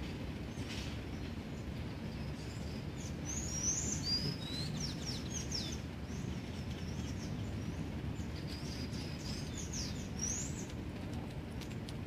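Small birds chirping in short, quickly rising and falling calls, in a cluster from about three to six seconds in and again around ten seconds, over a steady low rumble.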